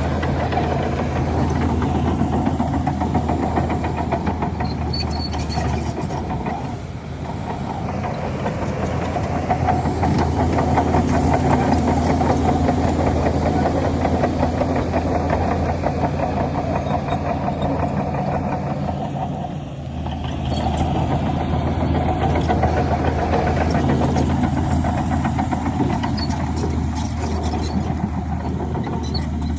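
Heavy diesel engine of a crawler bulldozer running steadily under working load. A steady low drone drops away about six seconds in and comes back about twenty seconds in, as the engine note shifts with the work.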